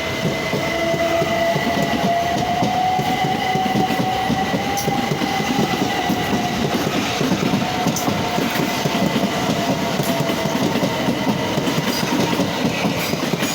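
Class 375 Electrostar electric multiple unit running close by: a loud, steady rumble of wheels on rail, with a whine that rises a little and then slowly falls away.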